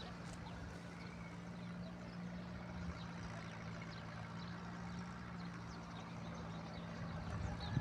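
A steady low engine hum running evenly, with faint short ticks above it.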